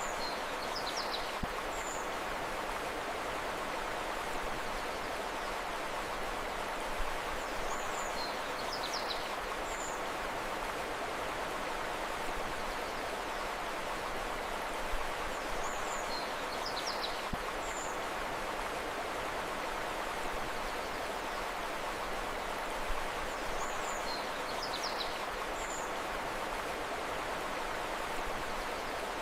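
Steady rushing of a flowing river, with short clusters of high bird chirps that come back about every eight seconds.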